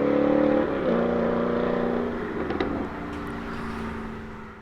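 Alfa Romeo 8C Spider's 4.7-litre V8 running hard with its exhaust note, then dropping in pitch about a second in and easing off to a lower, quieter note before fading out at the end.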